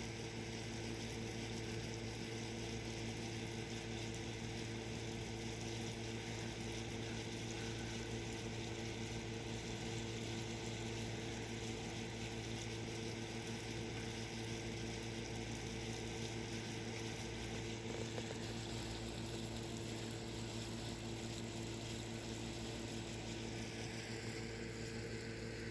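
Steady low mechanical hum with several fixed tones under an even hiss, unchanging throughout; no birdsong is heard.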